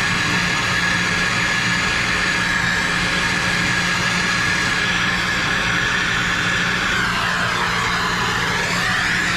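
A plumber's soldering torch burning steadily with a constant hissing rush of flame, heating copper pipe fittings for soldering. Near the end the hiss sweeps down in tone and back up.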